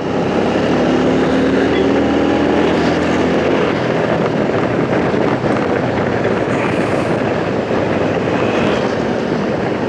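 Strong wind rushing over a motorcycle windshield and the camera microphone while riding, very noisy, with the motorcycle engine's steady hum faintly underneath.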